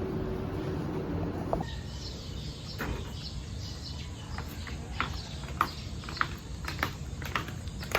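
A steady hum that cuts off about one and a half seconds in, then a bird chirping repeatedly, a short chirp every half second or so.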